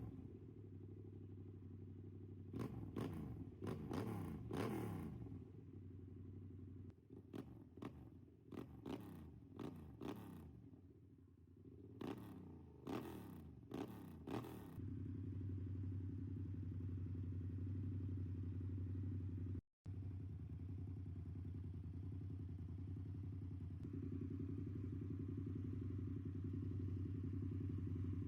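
Yamaha MT-07 parallel-twin with a full aftermarket exhaust system, its throttle blipped in a series of short revs, each falling back in pitch. About halfway through it settles into a steady, even-pitched run.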